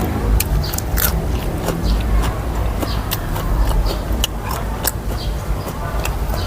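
Close-miked chewing of crunchy fermented pickled vegetables (som phak): irregular crisp crunches, a few each second.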